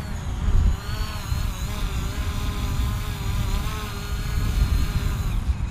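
DJI Mavic quadcopter's propellers buzzing as it hovers, the pitch of the whine wavering as the motors hold it against gusts. Wind buffets the microphone with a low rumble.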